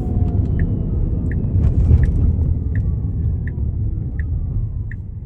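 Road rumble inside a Tesla Cybertruck's cabin as it slows, with a faint electric-motor whine falling in pitch. From about a second in, the turn-signal indicator ticks steadily, about once every 0.7 seconds, for a left turn.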